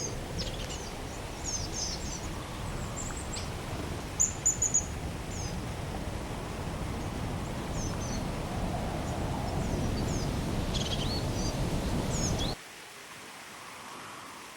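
Steady rush of mountain water with small birds chirping high above it. About four seconds in come three loud, short, high notes. Near the end the rush cuts off suddenly to a quieter hiss.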